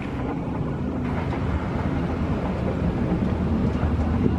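Diesel train approaching, its low engine rumble growing steadily louder.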